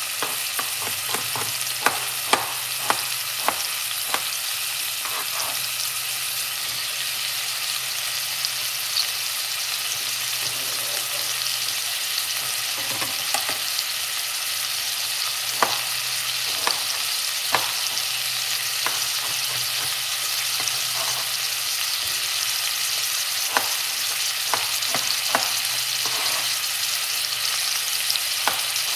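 Onion and frozen pumpkin cubes sizzling in an aluminium pot, a steady frying hiss. Sharp clicks and knocks sound through it, a cluster in the first few seconds and more later on, as more pumpkin pieces go into the pot.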